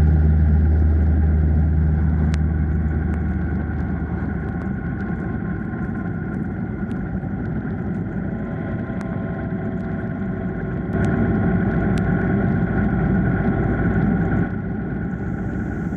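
Honda Gold Wing GL1500 motorcycle running steadily on the road, engine and wind noise mixed. It gets louder for a few seconds about two-thirds of the way in. Music fades out over the first few seconds.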